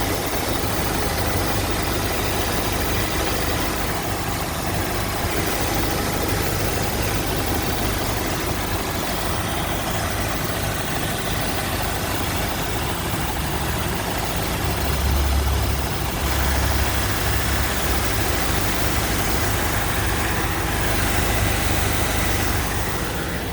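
Car engine idling steadily while its cooling system is burped of air after a coolant flush; the low rumble swells briefly twice a little past the middle.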